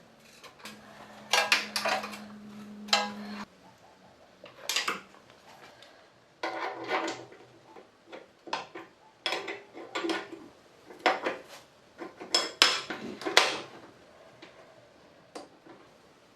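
Metal parts and tools clanking and scraping as they are handled, in irregular knocks with short pauses between them. A steady low hum runs under the first three seconds or so.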